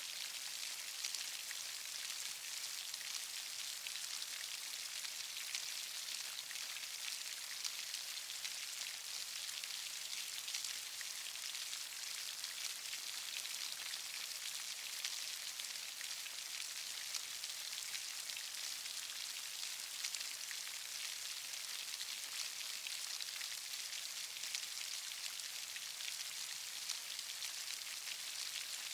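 Steady rainfall: an even hiss of many fine drops pattering without letup.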